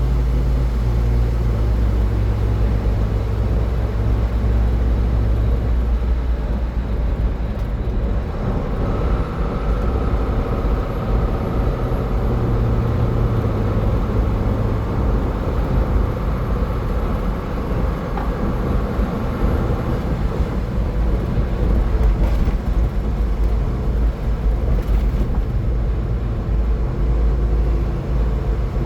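Car travelling on a highway: steady road and tyre noise with a low rumble. A faint steady whine rises out of it from about a third of the way in until about two-thirds through.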